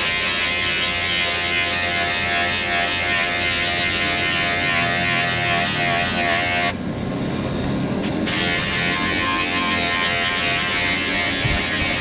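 A small electric motor, such as a handheld power tool, running steadily with a buzz. About seven seconds in, its high hiss drops away for a second and a half, as if the load or speed changes, and then the buzz resumes.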